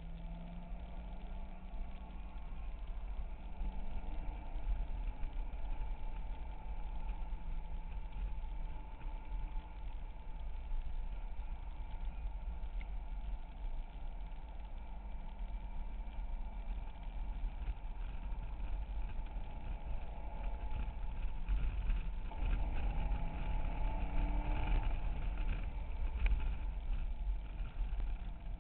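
Chevrolet Corvette C6 V8 heard from inside the cabin while lapping at speed, the engine note rising and falling with the throttle over a heavy, steady rumble of road and wind noise.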